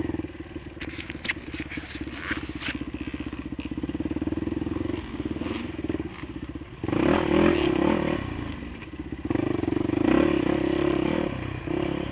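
Dirt bike engine running as it is ridden over a rough, slippery track, throttle opened up louder twice in the second half. A few sharp clicks sound in the first couple of seconds.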